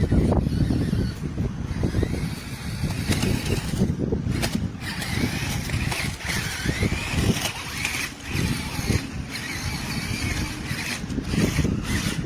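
Remote-control toy monster truck driving, its small electric motor whining and rising and falling in pitch as it speeds up and slows, over a constant low rumbling noise.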